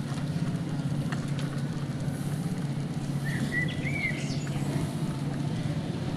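A vehicle engine running steadily with a low, fast chugging pulse, and a bird chirping briefly about halfway through.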